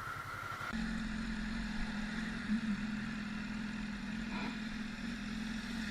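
A vehicle engine running at a steady speed, an even low hum that starts abruptly about a second in.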